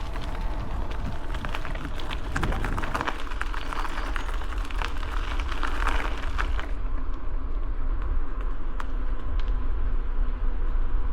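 E-bike riding fast on a gravel road: wind buffeting the microphone and tyres crackling over the gravel, with a faint steady motor whine underneath. A little past halfway the gravel crackle drops away and the wind noise carries on.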